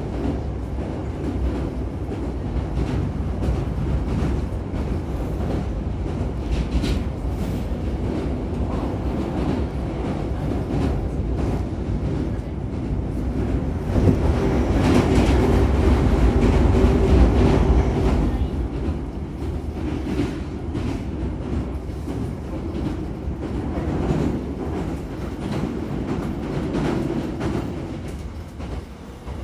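Hankyu Kyoto Line train running on the rails, heard from inside the passenger car: a steady rumble that grows louder for a few seconds about halfway through and eases near the end.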